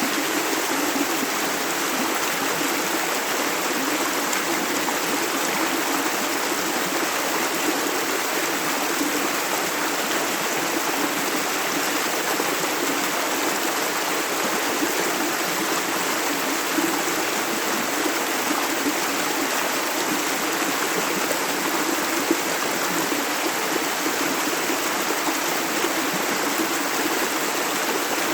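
Shallow river flowing steadily, water running and splashing over stones in an even rushing sound.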